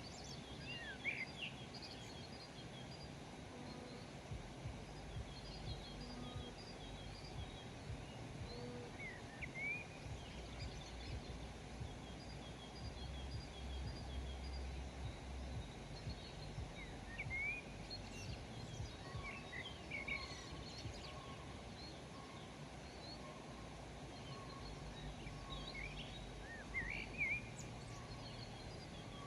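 Small birds chirping and calling in short, quick rising and falling notes, coming in scattered clusters, over a steady low outdoor rumble.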